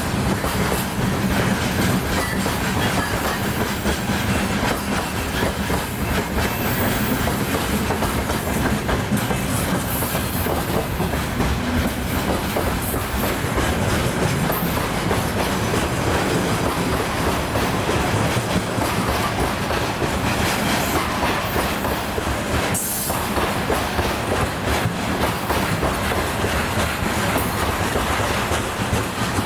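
Freight train wagons rolling past steadily, wheels clattering on the rails.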